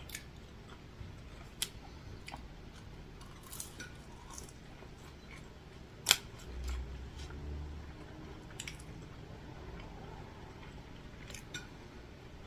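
Quiet eating sounds of a person chewing fast food, with scattered sharp clicks and handling noises; the loudest click comes about six seconds in.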